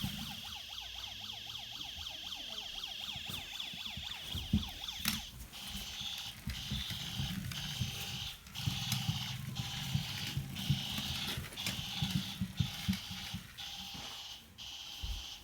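Toy police car's electronic siren sounding: a fast warbling wail for about the first five seconds, then a high alarm tone that pulses on and off about once a second.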